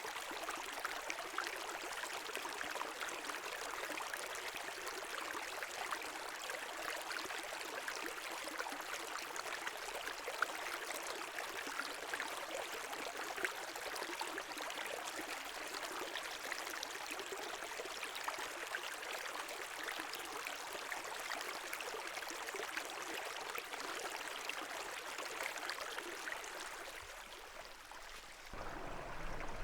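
Brook water running and splashing steadily. Near the end it dips slightly, then comes back fuller with a deeper rush.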